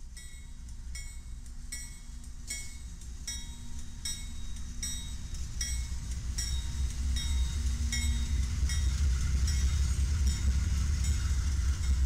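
Freight train's diesel locomotives approaching and passing at slow speed, their rumble growing steadily louder. A bell rings throughout at about two strikes a second.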